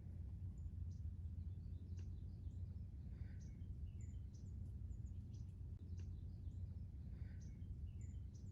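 Small birds chirping outdoors: short, scattered high calls over a steady low rumble of background noise.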